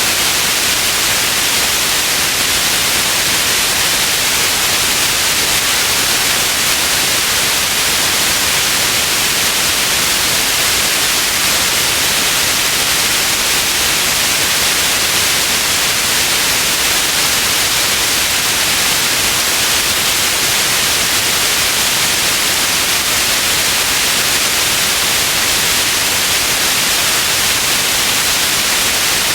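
Steady white noise: an even, bright hiss that never changes in level.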